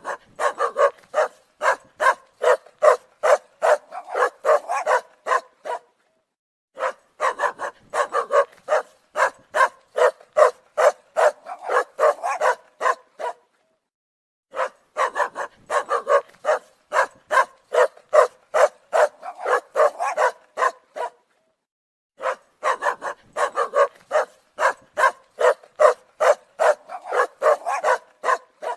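A recording of a dog barking, played back: rapid barks at about three a second, in four bursts of roughly six and a half seconds, each separated by about a second of dead silence, as if one clip is repeated.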